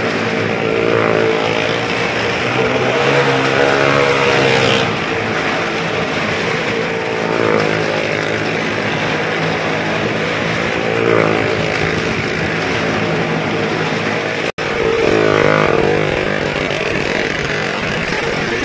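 Car and motorcycle engines running hard as they circle the vertical wall of a wall-of-death drum, the engine drone swelling and falling in pitch every few seconds as they pass. The sound cuts out for an instant about fourteen and a half seconds in.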